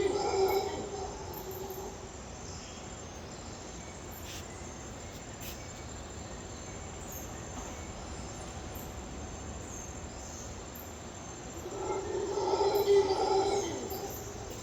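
Howler monkeys roaring: a deep, rolling bout of calls fading out in the first two seconds, then another loud bout starting about twelve seconds in. Between the bouts, a steady chorus of insects.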